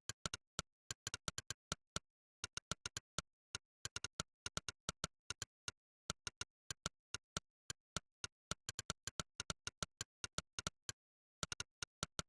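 Monkeytype's 'click' typing sound effect, one sharp synthetic click per keystroke, coming in quick irregular runs of several a second at typing pace with brief pauses between words, in dead silence otherwise.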